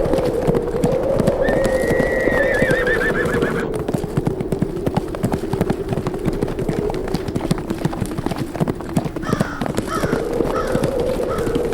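A herd of horses galloping, with dense, rapid hoofbeats. A horse whinnies about a second and a half in, a long call ending in a quaver, and there are a few shorter whinnies near the end. A wavering wind howl runs beneath.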